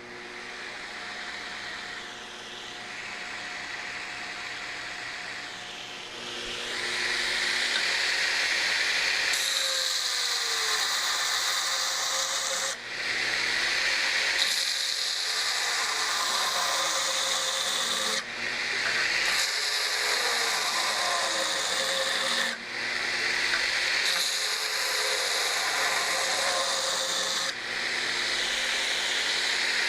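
Burr King belt grinder running, and from about six seconds in a steel knife blade being rough ground on its 60-grit belt: a steady, louder grinding hiss broken by short breaks about every five seconds between passes.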